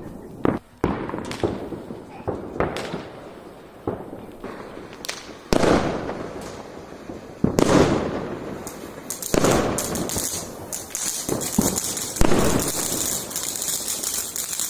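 Fireworks display: aerial shells bursting one after another, a bang every one to two seconds, each trailing off in an echo. Near the end a dense crackling of crackle stars joins in.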